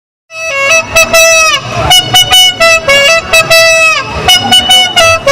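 A horn sounding a loud series of blasts, starting abruptly: a few longer blasts whose pitch drops away at the end, then quicker short toots.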